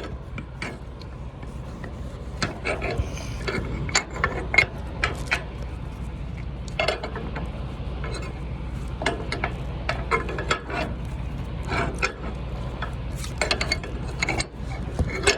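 Ratchet strap being worked by hand on a flatbed load: irregular metallic clicks of the ratchet as the 2-inch strap is threaded and tightened, over a steady low hum.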